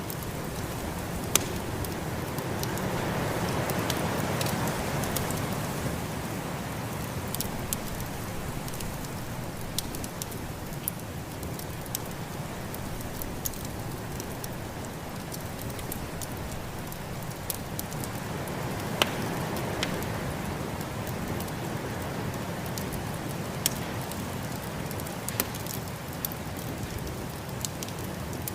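Wood fire crackling with scattered sharp pops, over a steady snowstorm wind hiss that swells twice, a few seconds in and again about two-thirds through.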